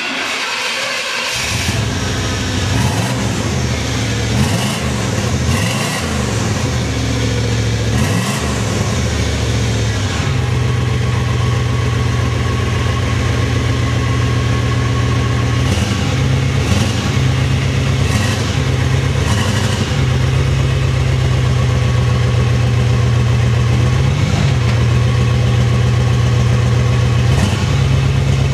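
Chevrolet 5.7-litre V8 starting up: a sudden noise at the very start, with the engine's low running tone coming in about a second in. For the next ten seconds or so its pitch rises and falls with several short revs, then it settles into a steady idle broken by a few brief blips of the throttle.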